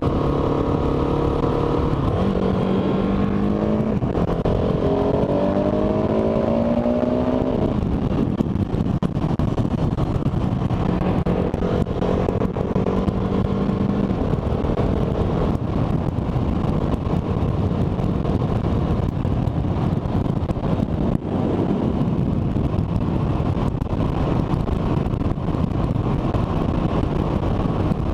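Motorcycle engine under way, its pitch climbing from about two seconds in until about eight seconds in as it accelerates, then holding steady for a few seconds. Heavy wind and road noise rush on the microphone throughout.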